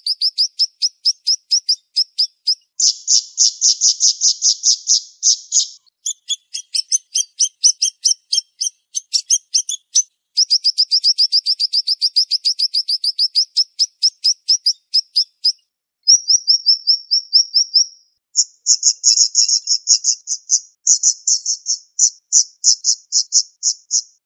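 Siri-siri songbird singing fast, high trills of rapidly repeated notes, in runs of a few seconds broken by short pauses, with one denser run about three seconds in and a softer short trill about two-thirds of the way through.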